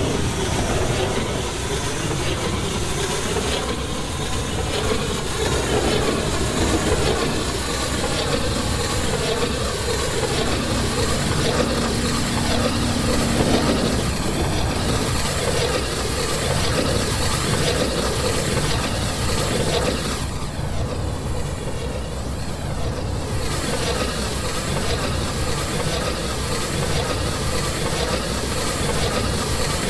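Train running on the rails with a continuous rumble, and a faint steady tone for about three seconds near the middle.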